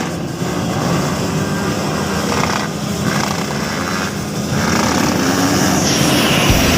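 Motocross dirt bike engines running on the track, a loud, steady engine noise.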